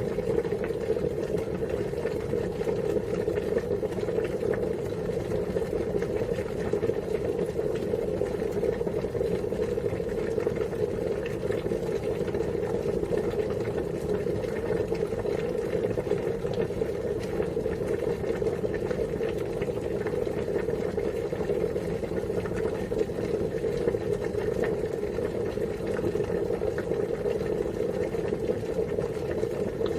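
Water boiling, a steady, unbroken bubbling with a low hollow rumble under it.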